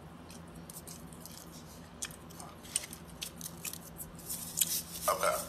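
A person chewing food close to the microphone, with scattered small mouth clicks and a brief vocal sound about five seconds in.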